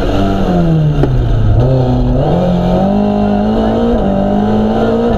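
Mk2 Ford Escort rally car's engine heard from inside the cabin. The revs fall over the first second and a half, then climb again, with a brief dip and rise near the fourth second.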